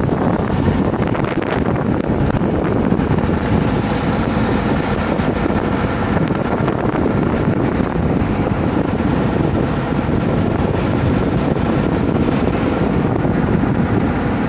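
A Tornado RIB speedboat running fast on the plane: its engine and the rush of water make a loud, steady noise, with wind buffeting the microphone.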